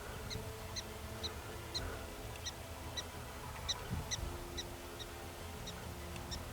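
Prairie dog alarm calls: a rapid series of short, high chirps, about two a second, over a low wind rumble.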